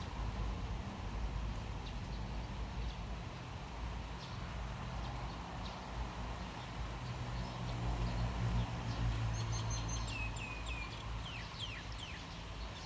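Steady rain hiss over a low rumble, with a bird chirping from about ten seconds in: a quick run of short, falling notes.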